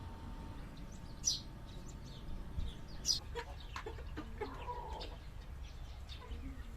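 Chickens clucking, with a few sharp high chirps. The two loudest come about a second and three seconds in.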